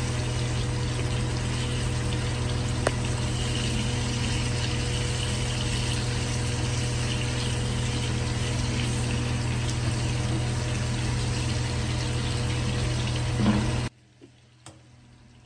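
Prawns sizzling as they shallow-fry in hot oil in a non-stick pan, over a steady low hum, with a spatula tapping the pan now and then as they are turned. The sound drops away abruptly about fourteen seconds in.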